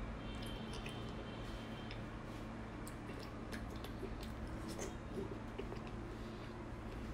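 Close-miked wet chewing and smacking on a mouthful of fatty fried pork belly, with many small squishy clicks, over a steady low hum.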